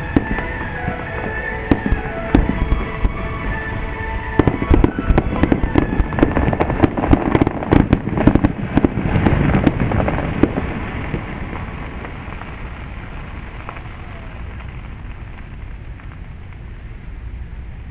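Fireworks bursting with sharp bangs and crackling, with music playing underneath at first. The bangs thicken into a rapid barrage for several seconds around the middle, then stop, leaving a steady low background noise.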